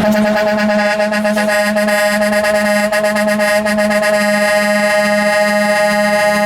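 Truck air horn blown in one long, loud, unbroken blast, holding a single steady chord that starts abruptly.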